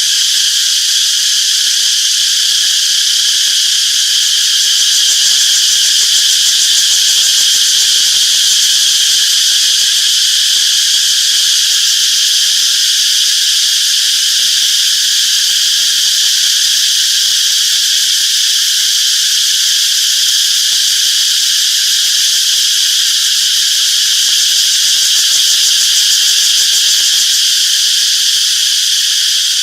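Cicadas buzzing in a continuous loud, high-pitched chorus that holds steady without pauses.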